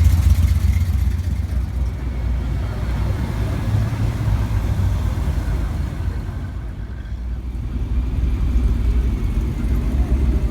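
A car engine running with a deep, low rumble. It eases off a little past the middle and builds again near the end.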